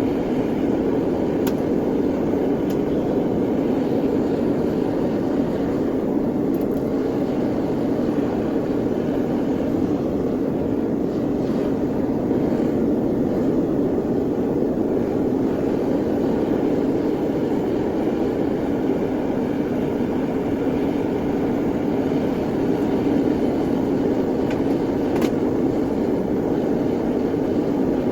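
Metal-melting furnace running with a steady roar, unchanging throughout, with a couple of faint clicks.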